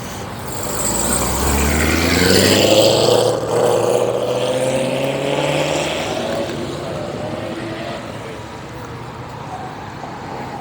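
A car accelerating hard as it leaves, its engine revving up to a peak about three seconds in, then fading as it pulls away.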